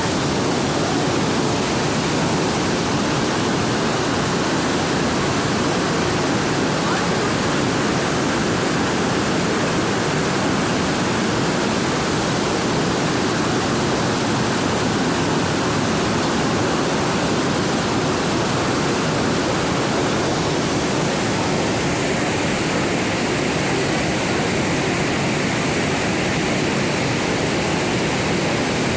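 Huge waterfall crashing down, heard from close below: a loud, steady roar of falling water with no let-up.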